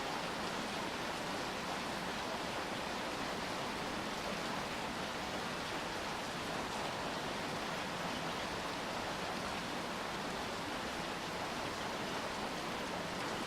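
Steady rain falling, a dense, even hiss of drops with no single drop standing out.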